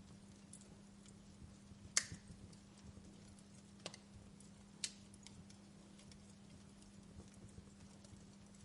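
Wood fire burning in a fireplace: faint crackling with three sharper pops, the loudest about two seconds in, over a faint steady low hum.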